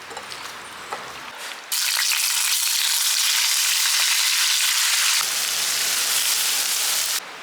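Food sizzling as it fries in hot oil in a pan, a loud, dense hiss that starts suddenly about two seconds in and cuts off abruptly just before the end. It is preceded by a few light clicks.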